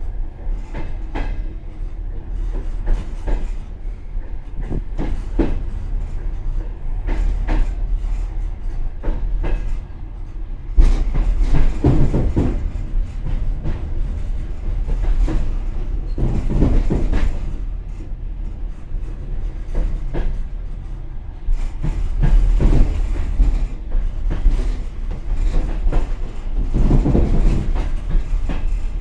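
Passenger train car running, heard from inside its rear vestibule: a steady low rumble with the wheels knocking over rail joints and points in irregular clusters of clacks.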